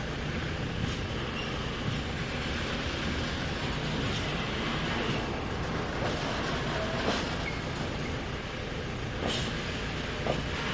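Diesel rail vehicle running slowly while shunting: a steady rumble with a few sharp clicks from the wheels over the rail joints.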